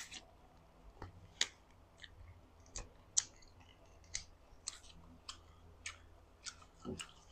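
Close-miked mouth sounds of someone gnawing and chewing tough boiled free-range chicken: about a dozen small sharp clicks and smacks at irregular intervals.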